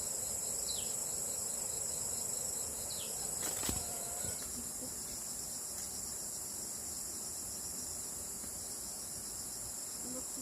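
Steady high-pitched chirring of an insect chorus, cricket-like, with a single sharp click a little over three seconds in.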